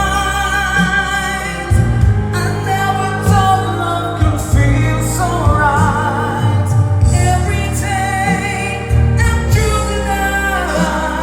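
A solo singer's voice with vibrato on held notes over a backing track with steady bass notes, sung into a microphone for a sound check.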